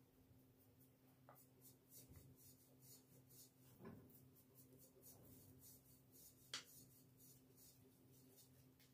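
Faint scratching and rubbing strokes of hand work, with one sharper click about six and a half seconds in, over a steady low hum.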